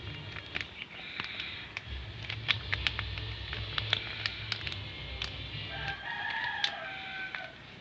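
Sharp plastic clicks and taps from handling the fabric-softener bottle and the washing machine's softener dispenser, over a low hum in the middle. Near the end comes a single long animal call lasting about a second and a half.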